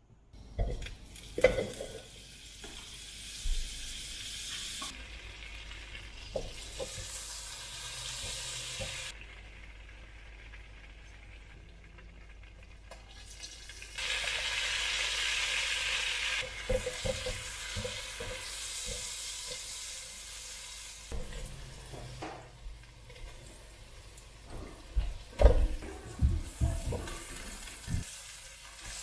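Butter and garlic sizzling in a hot nonstick pan, then corn cobs and sliced sausage frying and sizzling as a silicone spatula stirs them. Sharp knocks of the food and spatula against the pan come through the hiss, most of them near the end.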